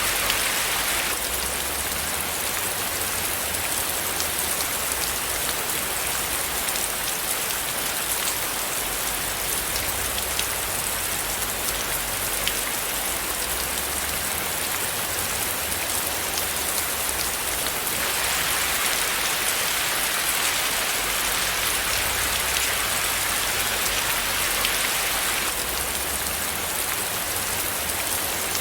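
Steady rain falling on a surface: a dense, even hiss with faint ticks of individual drops. The hiss grows a little brighter for several seconds past the middle, then settles back.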